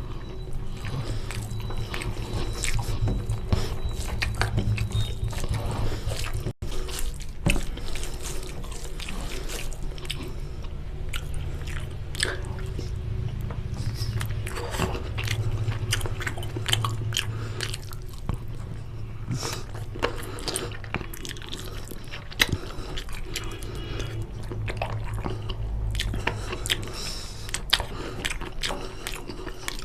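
Close-miked chewing and biting of chicken curry with rice: many irregular wet mouth clicks and smacks, with now and then a crunchier bite.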